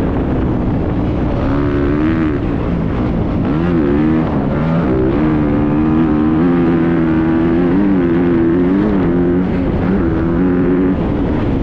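Motocross dirt bike engine running under throttle, its pitch dipping and climbing again several times as the throttle is closed and reopened.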